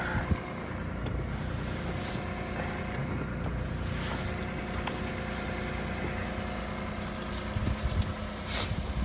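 Car engine idling steadily, with a few short knocks and scrapes over it.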